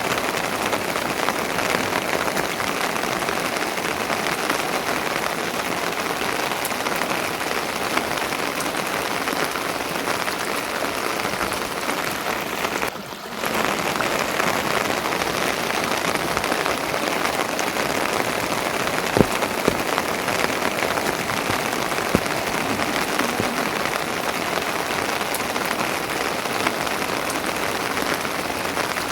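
Steady rain falling, a dense, even patter that briefly drops away about thirteen seconds in, with a few sharp drip-like ticks later on.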